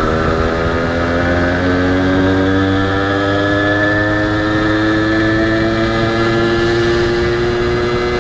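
Honda H100S single-cylinder two-stroke motorcycle engine running under way, its pitch climbing slowly and steadily as the bike gathers speed in gear.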